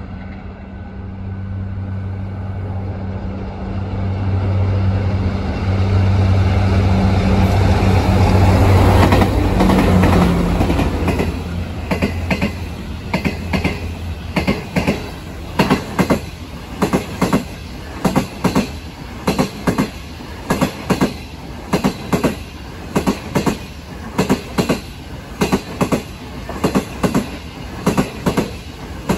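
A diesel locomotive passes, its engine drone swelling to a peak about ten seconds in and then dropping away. The train's cars follow, clattering by with a steady clickety-clack over the rail joints.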